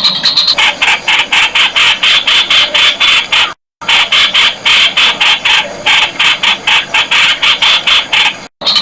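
Streak-eared bulbul calling: a rapid run of short, harsh notes, about five a second, loud and sustained. It cuts out completely for a moment twice.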